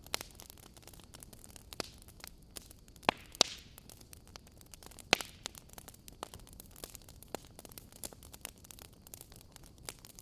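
Wood fire crackling in a fireplace: scattered small pops and ticks over a low hiss, with loud snaps twice just after 3 seconds in and once about 5 seconds in, and a brief hiss after the first pair.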